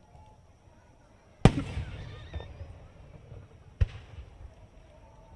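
Two aerial firework shells bursting: a loud bang about one and a half seconds in, its echo trailing off over a couple of seconds, then a second, smaller bang a little over two seconds later.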